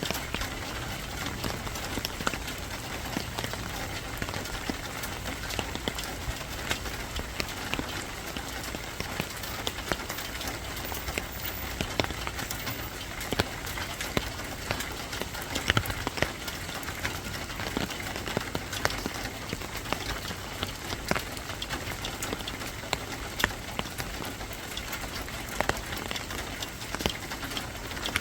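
Steady rain falling, an even hiss with many sharp, irregular drops hitting a hard surface.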